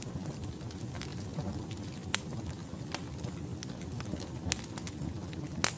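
Wood fire burning in a fireplace: a steady low rumble with sharp crackles and pops from the logs, the loudest about two seconds in, near the middle and just before the end.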